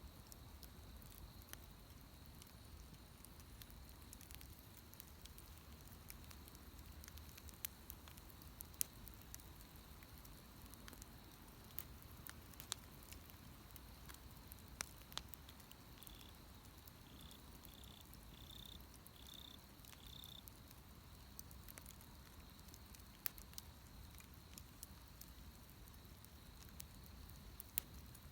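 Wood bonfire burning: faint, with scattered sharp pops and snaps over a soft steady hiss. About two-thirds of the way through, a short run of about six brief, even high chirps sounds over the fire.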